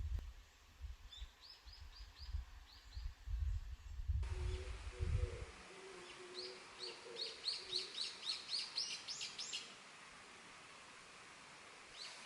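Small songbirds chirping: a few quick down-slurred chirps, then about three seconds of rapid chirps that grow louder and stop, with a lower wavering call in the middle. A low rumble runs under the first half.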